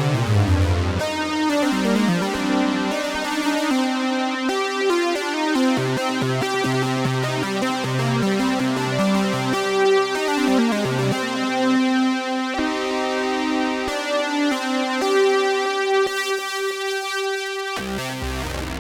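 Behringer Poly D analog synthesizer playing a sequence of notes over a held high note, with bass notes changing underneath. A falling pitch glide comes at the start, and the bass drops out for a few seconds near the end.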